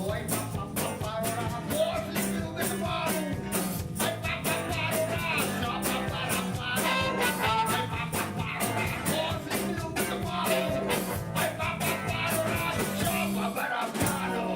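A live band playing a rock number: a steady drum beat and bass under a wavering melodic lead. The bass and low end drop out for a moment near the end.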